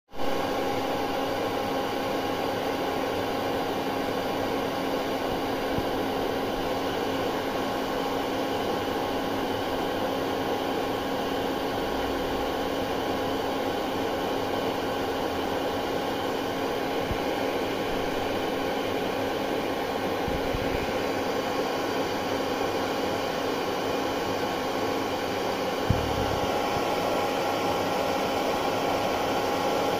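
Hair dryer running steadily, an even blowing rush with a steady hum in it, starting right at the beginning.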